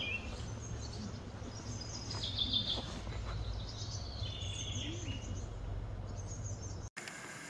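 Small birds chirping in short, repeated phrases over a steady low outdoor rumble; the sound cuts off abruptly near the end.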